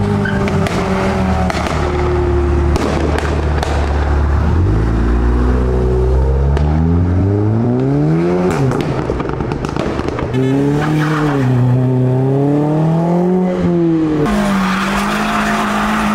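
Modified cars accelerating away one after another, their engines revving: a long rising pull about four seconds in and another rise and fall near the middle, with scattered sharp pops.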